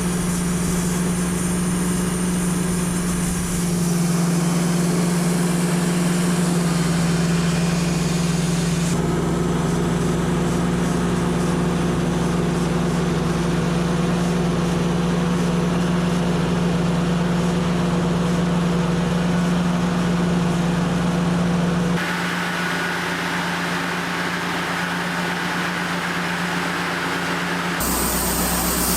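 Portable band sawmill's engine running steadily, its pitch and tone shifting abruptly several times.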